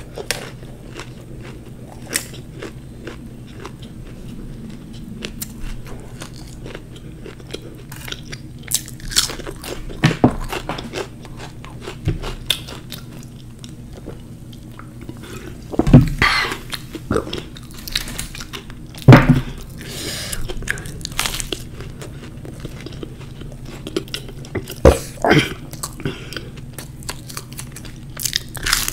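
Close-up mouth sounds of a person biting and chewing fried samosas, the pastry crust crunching, with wet chewing in between. A few louder sharp sounds come past the middle, around a swig from a plastic cola bottle.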